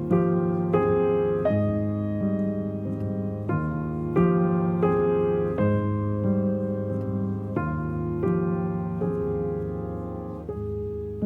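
Background piano music: a slow, gentle melody with sustained chords.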